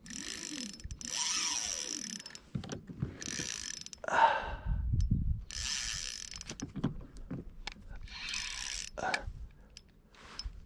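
Fishing reel clicking and ratcheting in repeated short bursts while a big hybrid striped bass is fought on the line. A louder sudden noise comes about four seconds in.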